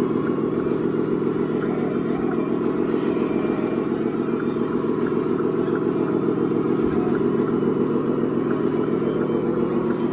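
A radio-controlled construction model running steadily, giving a continuous low mechanical hum with a fast even pulse and no breaks.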